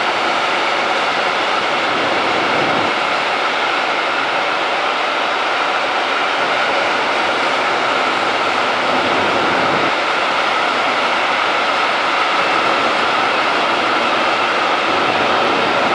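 Long freight train of bogie hopper wagons rolling past: a steady, loud noise of steel wheels running on the rails.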